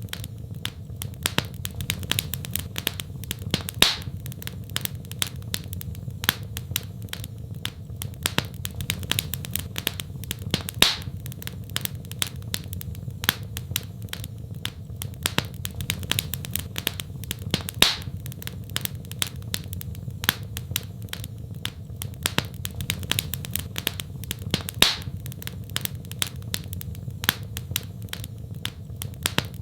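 Wood fire crackling in a fireplace: dense small snaps and ticks over a steady low rumble, with a louder pop about every seven seconds.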